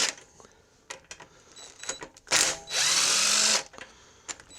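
Small impact gun spinning a cylinder head bolt out of a Honda GX140 engine in one burst of about a second, a little after halfway, its motor pitch rising as it runs. Light metallic clicks of the bolt and tool being handled come before and after it.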